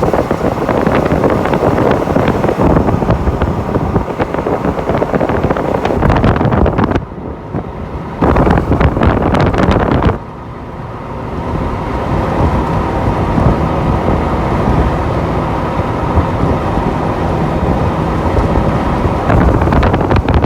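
Loud wind noise buffeting the microphone, with a deep rumble. It breaks off abruptly several times, as at cuts between separate clips, and a faint steady hum runs under the later part.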